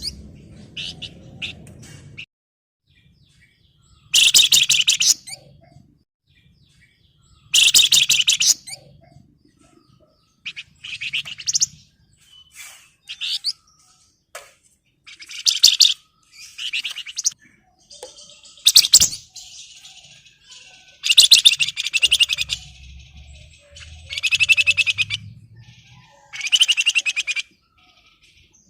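Flamboyan (wergan Jawa, Javan fulvetta) singing in rapid, dense chattering bursts, about a dozen high-pitched phrases each a second or less, repeated with short pauses: the excited, in-form calling that is meant to provoke a rival bird to answer.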